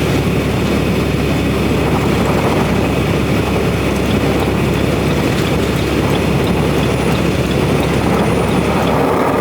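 Steady engine and road noise inside the cab of a semi truck while driving.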